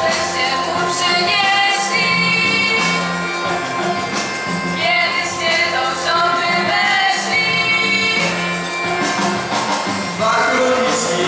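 Singers performing a Polish Christmas carol (kolęda) with instrumental accompaniment.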